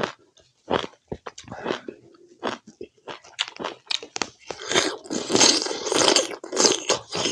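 Close-up chewing and biting of spicy pork curry with rice: a run of separate wet mouth smacks and crunches, then a louder, denser stretch of crunching and chewing about two-thirds of the way through.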